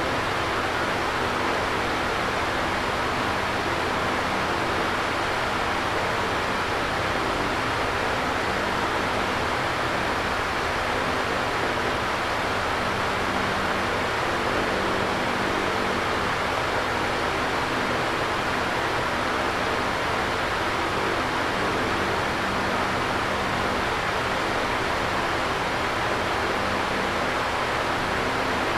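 Electric fan running steadily: an even rush of air with a faint low hum underneath.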